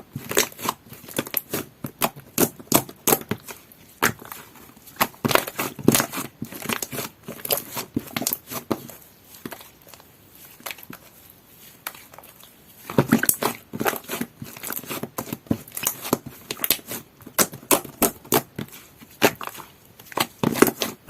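Two-tone lid slime being squeezed, stretched and poked by hand, giving rapid, irregular clicks, pops and crackles in bursts. There is a quieter stretch about nine to twelve seconds in.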